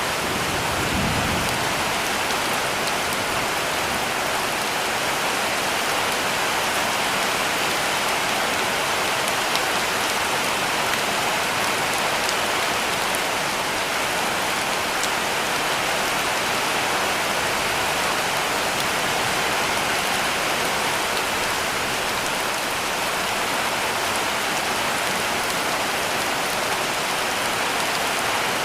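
Heavy rain falling steadily on a roof, an even dense patter of drops that does not let up, with a brief low rumble about a second in.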